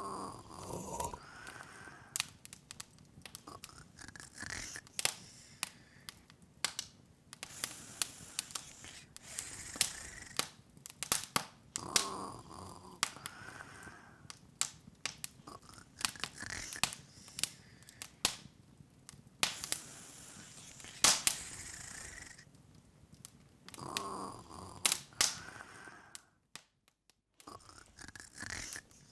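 Open wood fire crackling, with irregular sharp pops and snaps over a soft hiss. The sound cuts out briefly near the end.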